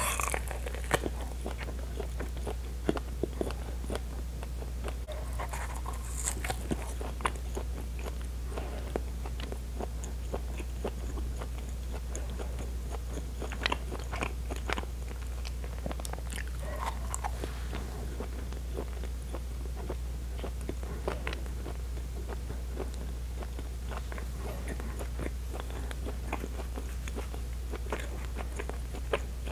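Close-miked eating of pão de queijo (Brazilian cheese bread): a bite at the start, then chewing with many small mouth clicks over a steady low hum.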